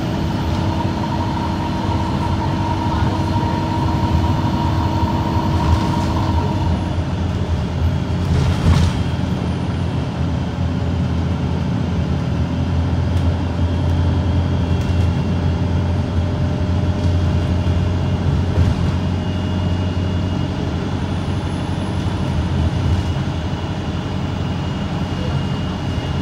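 Cummins ISB4.5 four-cylinder turbo-diesel of an Alexander Dennis Enviro 200 MMC bus running. About seven seconds in a steady whine drops away and the low engine drone grows stronger, with a short sharp noise soon after.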